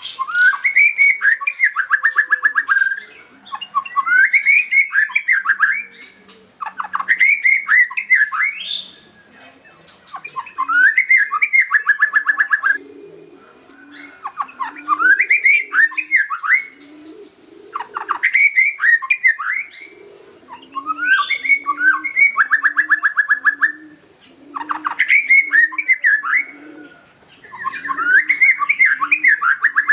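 Young white-rumped shama, just past its spotted juvenile plumage, singing its basic song: repeated phrases of rising and falling whistles, many ending in a fast, even trill, about one phrase every three to four seconds. Low repeated cooing notes join from about the middle, and a steady high whine runs underneath.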